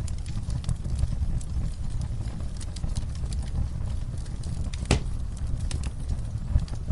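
Wood fire crackling in a fireplace: a steady low rumble of flames with scattered sharp pops and snaps, one louder pop about five seconds in.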